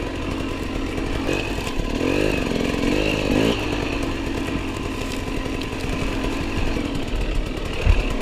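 Enduro motorcycle engine running at low speed off-road, with the revs rising and falling briefly about two seconds in.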